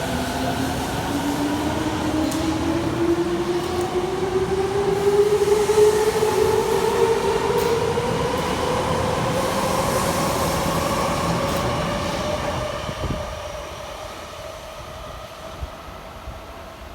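Tokyo Metro Tozai Line subway train pulling out, its motors whining in a steadily rising pitch as it gathers speed, with running noise from the wheels. The sound fades away about 13 seconds in as the train leaves.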